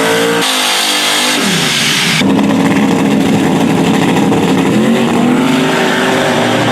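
Drag racing cars' engines running hard at full throttle, loud, with a drop in pitch about a second and a half in and an abrupt change to a lower, steady engine note about two seconds in.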